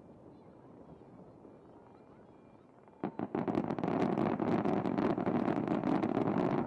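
Low, quiet background rumble. About three seconds in, a dense barrage of fireworks starts all at once: loud, rapid crackling and popping that keeps going.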